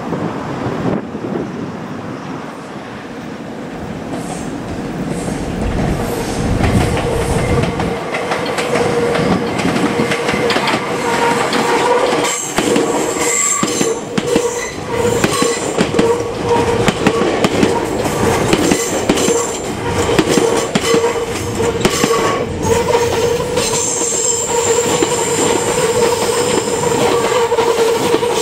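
Meitetsu electric train running past, building up over the first few seconds, its wheels squealing on the rails with rhythmic clacking over the rail joints. A high steady screech joins about halfway through.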